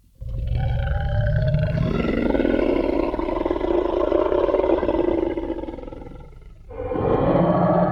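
Designed Tyrannosaurus rex roar sound effect: one long, deep roar of about six seconds that fades out, then a second roar starting near the end.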